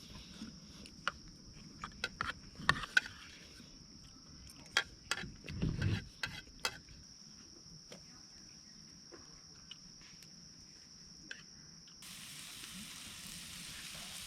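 A steady high insect trill with scattered clicks and knocks. About twelve seconds in, it cuts to the steady hiss of pork ribs sizzling over a campfire.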